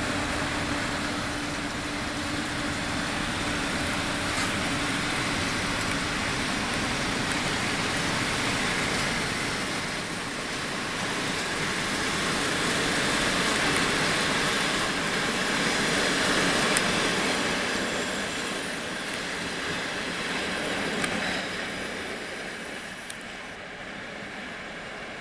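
Passenger train rolling through a station. Its rumble and hiss grow louder as it comes near, peak about two-thirds of the way in, then fade as the coaches pass. A low steady hum stops about six seconds in, and a couple of sharp clicks are heard.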